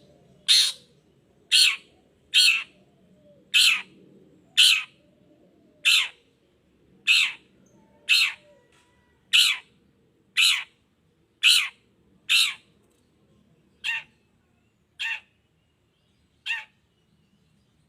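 Long-tailed shrike (pentet) giving a string of harsh, rasping calls, about one a second. The last few calls are fainter.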